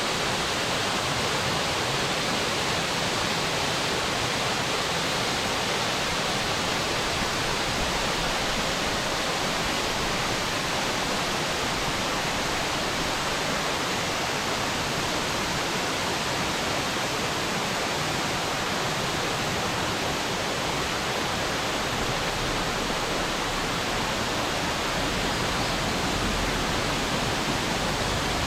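Waterfall's falling water rushing steadily, a dense unbroken hiss, with some low rumble coming in near the end.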